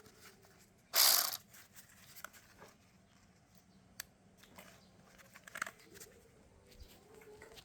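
A Dagmara 12V cordless ratchet wrench run briefly, a short burst of motor and gear noise about a second in, followed by a few faint clicks of the tool being handled.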